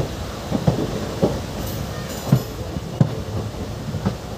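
Train running at low speed, heard from aboard a coach: a steady rumble with sharp clacks of the wheels over rail joints every half second to a second.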